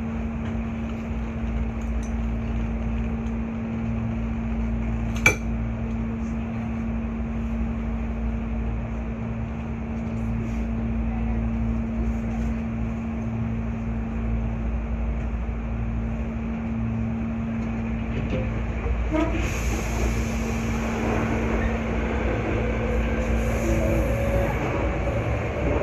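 Hankyu 8300 series electric train running, heard from inside the car: steady rumbling running noise with a constant hum. A single sharp click about five seconds in, and a faint whine rising slowly in pitch over the last few seconds.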